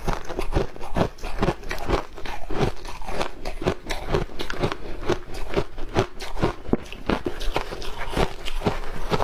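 Close-up crunching of ice cubes coated in matcha green tea powder being bitten and chewed, with sharp crunches following one another several times a second without a break.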